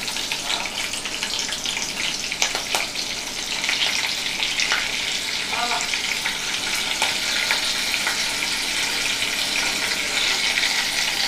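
Green chillies sizzling in hot oil in a kadai, a steady crackling hiss. A spatula taps against the pan a few times in the first three seconds. The sizzle grows a little louder about three and a half seconds in.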